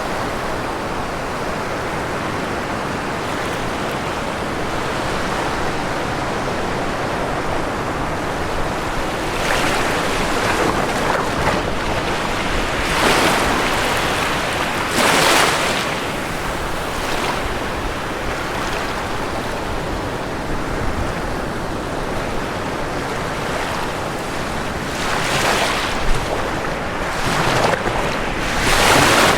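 Ocean waves breaking on a shore over a steady wash of surf, with several louder breaking surges about every two to four seconds in the second half.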